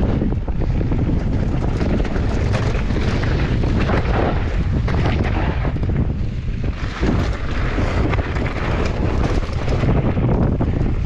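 Wind buffeting the microphone of a mountain bike rider descending a trail, with the tyres rumbling over the ground and repeated clatters and knocks from the bike over bumps.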